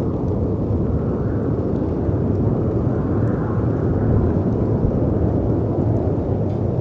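Storm ambience: a steady low rumble of wind and sea surf that swells gently, with a few faint fire crackles.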